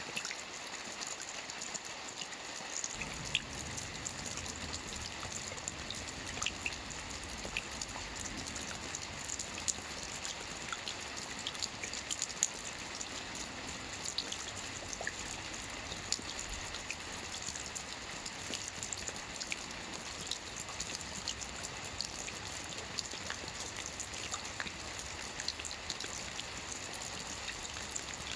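Soft rain falling on a roof: a steady hiss of rain dotted with the ticks of single drops. A low rumble joins about three seconds in.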